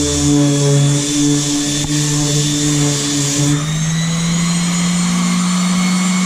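Electric sander's motor running steadily with a hiss of abrasive on the surface. About three and a half seconds in, the hiss stops and the motor's pitch rises a little as it runs free.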